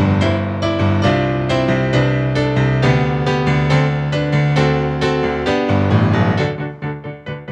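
Piano music: a run of struck notes over held bass notes, thinning out and growing softer about six and a half seconds in.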